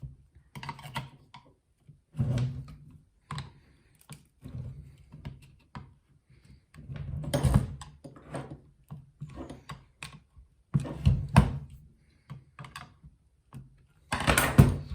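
Irregular metal knocks and clicks from tools working the stuck outer casing of a model jet turbine loose, with a few heavier thunks about halfway through and near the end.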